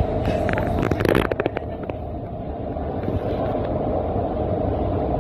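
Doha Metro train running, heard inside the carriage as a steady low rumble and hum, with a few short clicks and knocks in the first second and a half.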